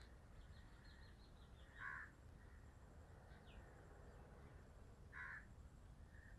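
Two short bird calls about three seconds apart, with a few faint high chirps between them, over near-silent background.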